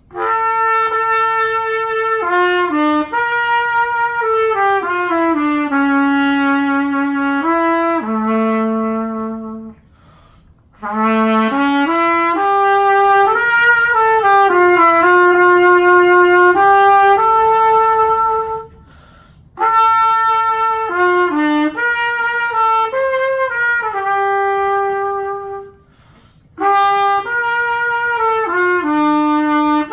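A cornet being play-tested, one player sounding melodic phrases of held and moving notes, with short breaths between phrases.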